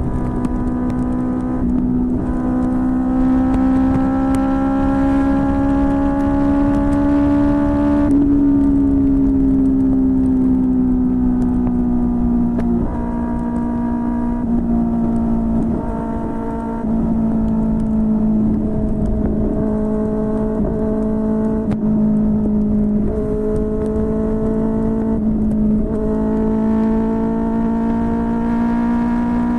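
QJMotor SRK600 inline-four motorcycle engine running through a Yoshimura R11 exhaust while riding. The note climbs slowly for several seconds, then falls away, with two brief breaks midway and a climb again near the end.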